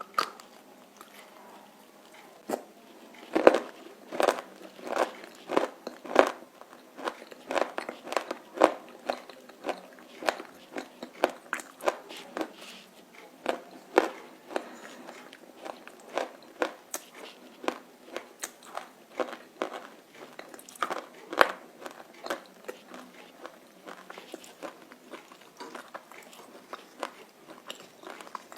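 Close-up crunching and chewing of roasted clay chunks: a long run of sharp bites and crunches, about one to two a second, thinning out toward the end.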